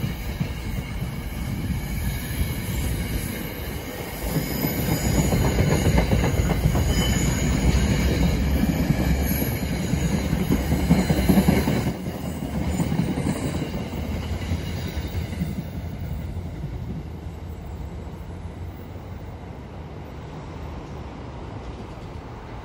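NJ Transit commuter train passing: rumble and clatter of the wheels on the rails with a high, steady wheel squeal. It is loudest around the middle, then fades away over the last ten seconds as the train moves off.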